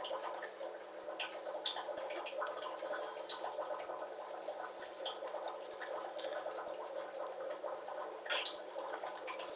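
Baby cockatiels pecking and tearing at wet spinach leaves: many small, irregular wet clicks and snaps over a faint steady hum.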